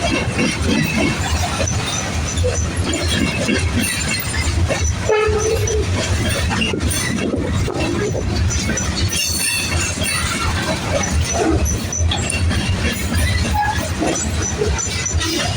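Freight train rolling past close by: a steady heavy rumble with the clatter of steel wheels over rail joints, and a brief squeal about five seconds in.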